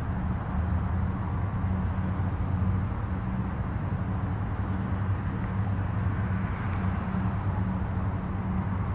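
Distant highway traffic: a steady low rumble of tyres and engines, with a slight swell about two thirds of the way through as vehicles pass.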